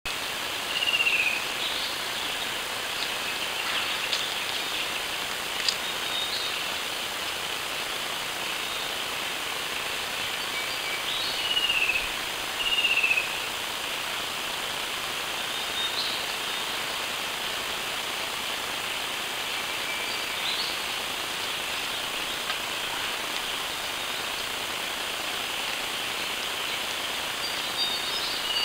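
Wild birds calling: a few short, descending whistles, one about a second in, two around eleven to thirteen seconds and one at the end, with scattered brief chirps, over a steady hiss.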